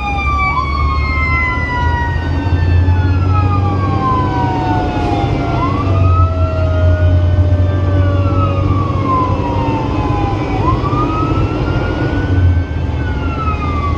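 Fire engine siren wailing, rising and falling about every five seconds, with a second, lower siren tone winding slowly down over the first several seconds. The truck's engine drones steadily underneath.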